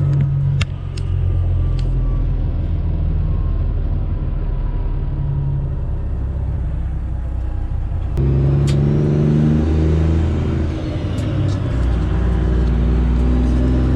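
Straight-piped Detroit Diesel engine of a Freightliner Classic XL truck running on the road. About eight seconds in it gets louder and its note climbs, as when the truck pulls harder.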